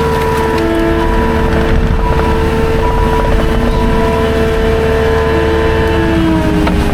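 Skid steer engine running under load, with steady hydraulic whining tones that come and go as the grapple works.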